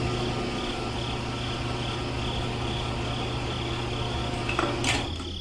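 Small electric motor of a miniature concrete mixer running steadily: a buzzing hum with a high whine that pulses evenly. A rocker switch clicks about five seconds in, and the motor winds down.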